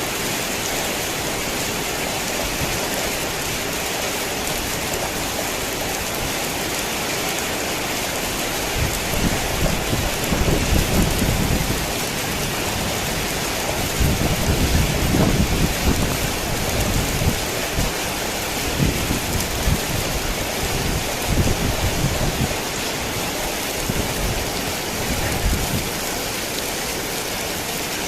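Heavy rain falling steadily, with low rolling thunder rumbling up about a third of the way in and again around the middle, and shorter low rumbles later on.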